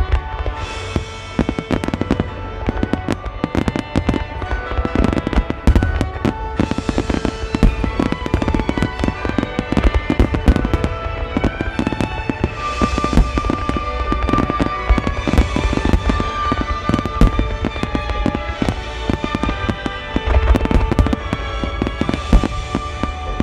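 Dense barrage of firework shells bursting in quick succession, many sharp bangs overlapping one another, with music playing underneath throughout.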